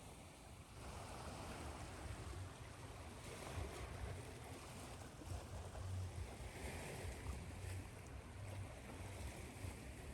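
Recorded ocean waves washing in and out, a steady rushing hiss with a low rumble that swells and eases, mixed with white noise.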